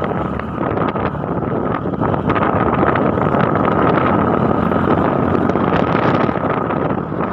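Steady loud rushing noise of wind on the microphone, with a constant thin whine above it.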